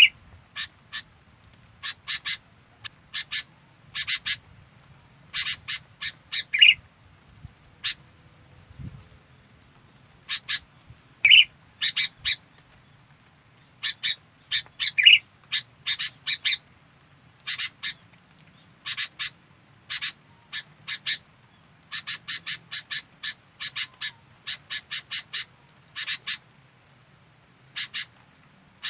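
Sooty-headed bulbul (kutilang) calling: short, sharp chirps in quick bunches of two to six, with now and then a lower, louder note. A faint steady high tone runs underneath.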